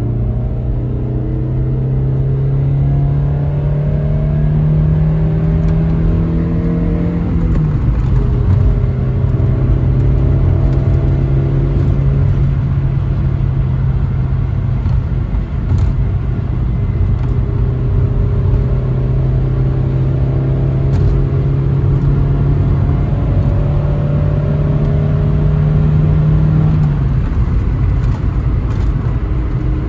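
Toyota Carina E's 1.6-litre 16-valve four-cylinder engine pulling a car on the road, its pitch climbing slowly under acceleration and dropping abruptly at two upshifts, about a quarter of the way in and again near the end, over steady road rumble.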